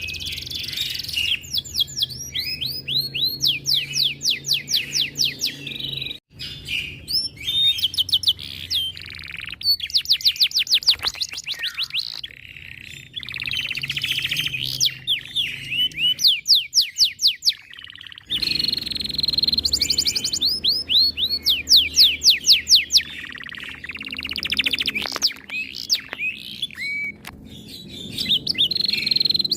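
Domestic canary singing a long, continuous song of fast trills: rapid runs of repeated high, downward-sweeping notes alternating with warbled phrases.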